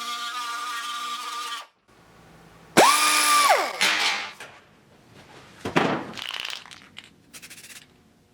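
A handheld power tool running steadily, cutting off abruptly under two seconds in, then a short trigger burst about three seconds in that spins up and winds down, followed by scattered knocks and clatter of metal work.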